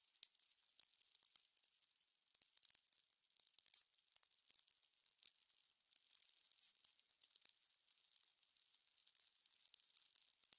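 Fire crackling: a soft steady hiss with frequent irregular sharp pops and snaps.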